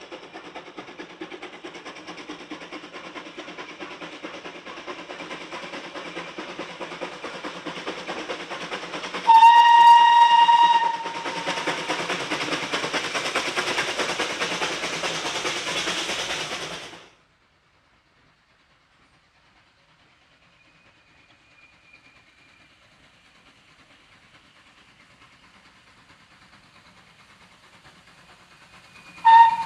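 A train running with steady noise and clatter. About nine seconds in, a loud single-note whistle sounds for over a second, followed by louder train noise that cuts off abruptly. After a quieter stretch, a second short whistle blast comes near the end.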